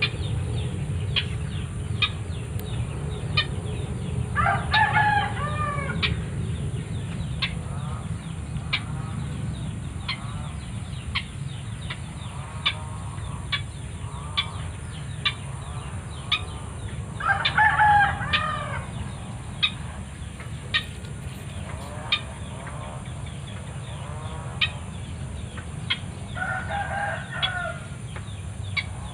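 Roosters crowing: three loud crows, about 4 s, 17 s and 26 s in, with fainter crows further off between them. Sharp ticks come about once a second over a steady low rumble.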